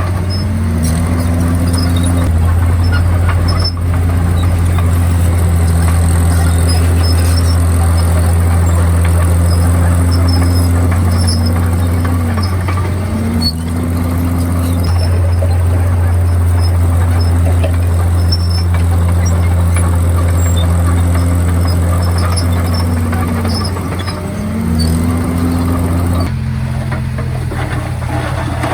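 Komatsu D51PX crawler bulldozer's diesel engine running steadily under work, with a constant low hum and a clattering noise over it; the engine note dips and recovers a few times. Near the end the note changes abruptly to a different steady pitch.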